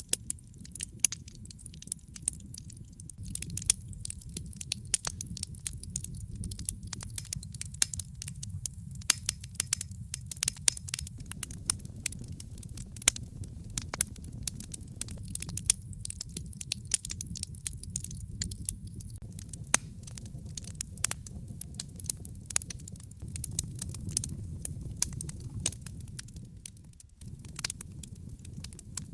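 Wood fire crackling in a fireplace: frequent sharp pops and snaps over a steady low rumble, which dips briefly near the end.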